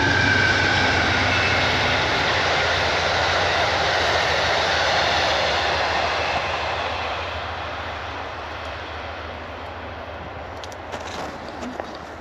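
A train passing close by on the tracks: loud rumbling rail noise that starts at full strength and slowly fades over the second half as it moves away.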